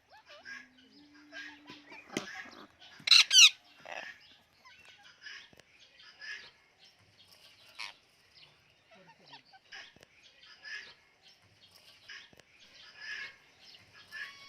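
Pet parakeet making short repeated chirps and chatter, with one loud screeching squawk about three seconds in.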